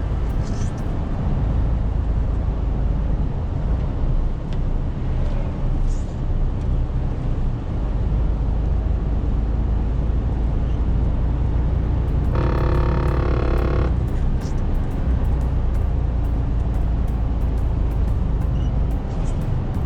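Truck's diesel engine running, heard from inside the cab as a steady low drone. About twelve seconds in, a single held tone with overtones sounds for under two seconds.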